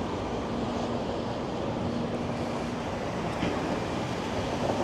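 Steady city traffic noise, with a faint hum for a couple of seconds in the first half.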